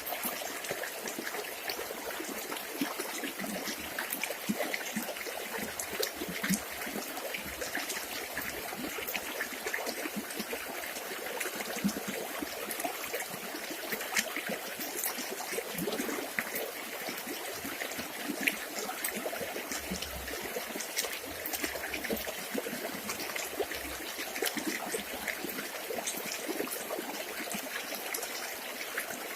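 River water trickling and splashing steadily, with many small splashes.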